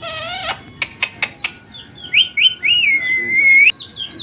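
Indian ringneck parrot calling. It starts with a harsh squawk and a few sharp clicks, then gives a run of short rising chirps that lead into a long, high whistle, which stops abruptly near the end.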